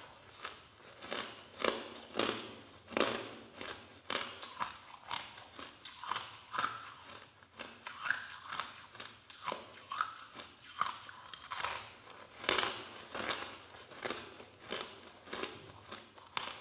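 A person biting and chewing soft crushed ice close to the microphone, a rapid run of crunches about one or two a second.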